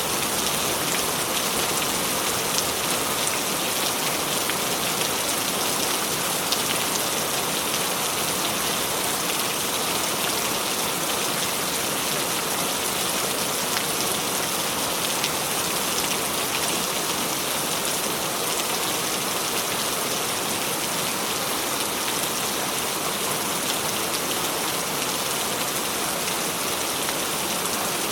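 Steady rain falling, an even hiss of countless drops with faint individual drop ticks scattered through it.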